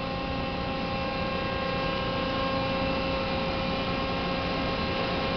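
Steady electrical hum with a hiss underneath, holding several fixed tones and no distinct events.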